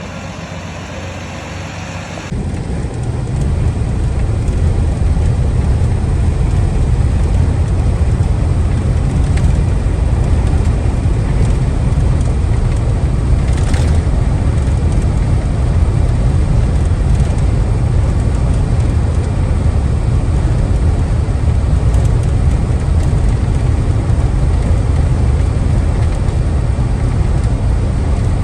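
Box truck driving on the road: a steady low rumble of engine and road noise that builds over the first few seconds and then holds, with one brief sharp sound about halfway through.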